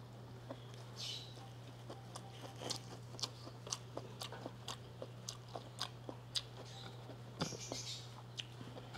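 Close-up chewing of sautéed bamboo shoots and rice eaten by hand: soft crunches and wet mouth clicks come at irregular intervals, over a faint steady low hum.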